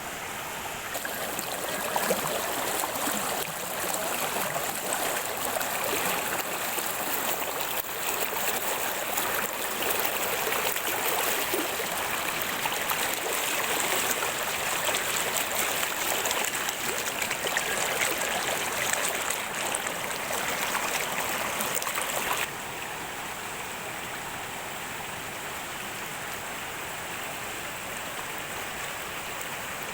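Rain falling steadily, a dense hiss of many drops; about three-quarters of the way through the sound drops suddenly to a softer, even level.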